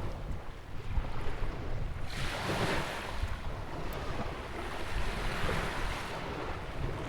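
Ocean waves breaking and washing in at a rock jetty on a sandy beach, one surge of wash rising about two seconds in and another a couple of seconds later. Wind buffets the microphone with a steady low rumble.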